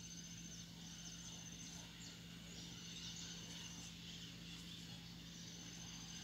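Faint outdoor ambience: small birds chirping in the distance, with thin high calls coming and going, over a steady low hum.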